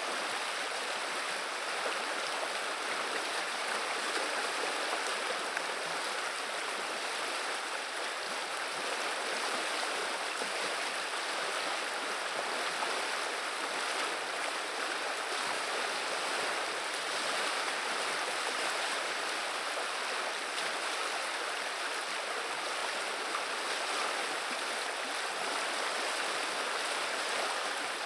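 River water running and babbling in a steady, even rush.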